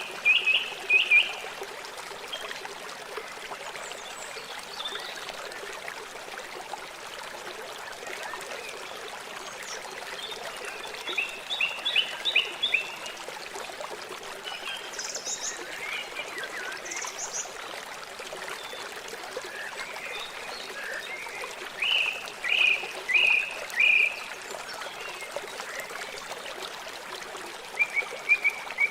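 River water flowing in a steady rush. Groups of short chirping calls come in every ten seconds or so: near the start, about 11 seconds in, about 22 seconds in, and again near the end.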